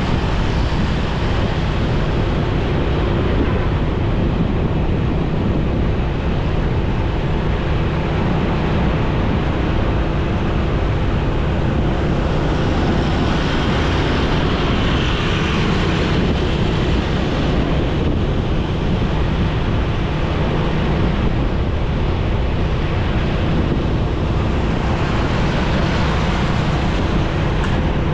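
Motorcycle riding at steady speed: wind rushing over the microphone, with the engine's even hum underneath.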